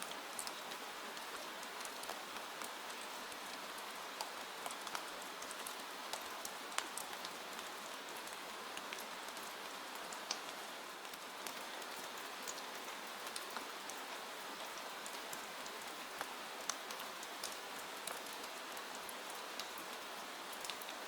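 Steady rain, an even hiss with scattered sharp clicks of individual drops throughout.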